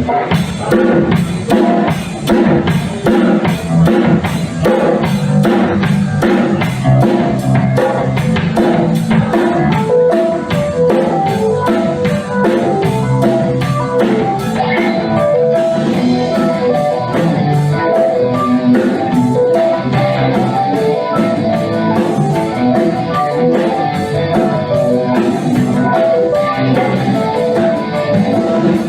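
Rock band playing an instrumental passage: a drum kit keeps a fast, steady beat under guitar and bass lines.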